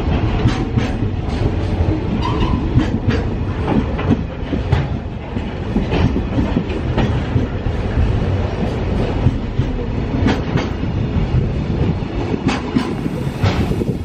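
Container flat wagons of a freight train rolling past at close range: a steady low rumble with wheels clicking over the rail joints. The tail wagon passes near the end.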